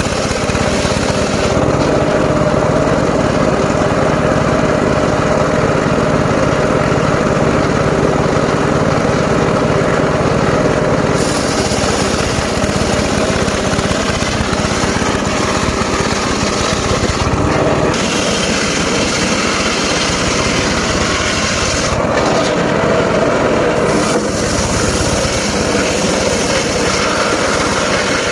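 Mobile circular sawmill running steadily, its engine and large spinning blade sawing through mahogany and waru logs. The sound changes character several times, about every five to ten seconds, as the blade goes in and out of the wood.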